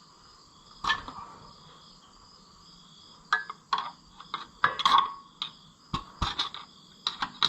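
Hand tools clicking and clinking against metal on the underside of a Ferguson 30 tractor engine: a single knock about a second in, then a run of short sharp clicks and knocks from about three seconds on. Insects chirr steadily in the background.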